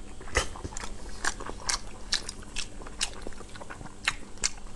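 A person chewing a mouthful of braised pork belly, close to a clip-on microphone: a string of irregular, moist mouth clicks and smacks.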